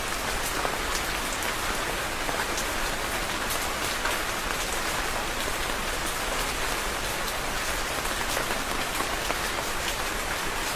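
Steady rain falling on a surface, a dense even hiss with many individual drops tapping sharply through it.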